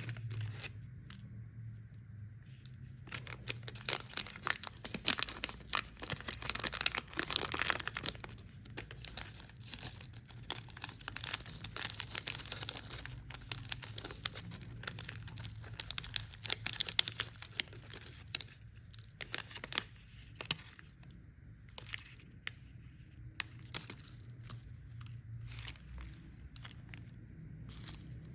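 Plastic candy wrappers being crinkled and torn open, in a dense run of crackles that later thins to scattered rustles and clicks.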